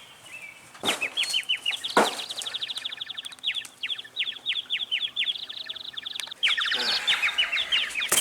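A bird squawking in long runs of rapid, falling chirps, several a second, with two sharp knocks early on.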